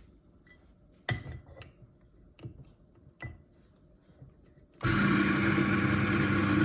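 A few light clicks and knocks, then about five seconds in the Eureka Mignon Specialita coffee grinder's motor starts and runs steadily with a strong hum, grinding a single dose of beans.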